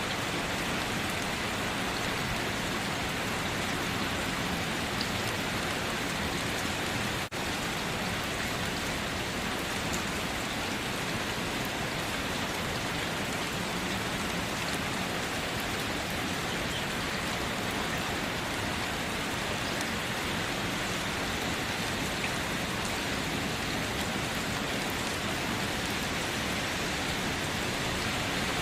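Steady rain falling, an even hiss that holds at one level, with a momentary dropout about seven seconds in.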